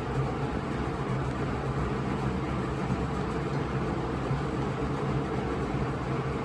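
Diesel engine of a cargo truck running steadily at idle just after being started.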